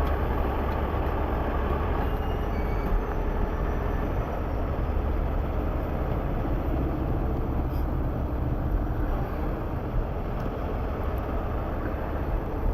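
Heavy truck diesel engine running steadily, a constant low rumble.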